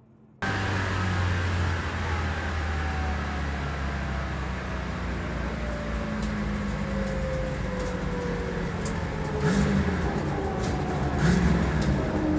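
Twin-turbo Dodge Charger Hellcat engine running as the car rolls along, its pitch falling slowly as it slows down. It starts suddenly about half a second in.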